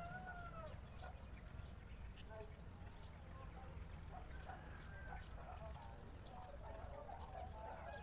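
Faint bird calls: a couple of curved whistled notes at the start, scattered short chirps, then a dense run of chattering calls over the last two seconds. A low steady rumble runs underneath.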